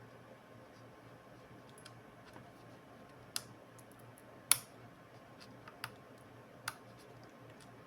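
A few sharp clicks and taps of small hard parts and tools being handled during laptop disassembly work, the loudest about halfway through, over a faint steady low hum.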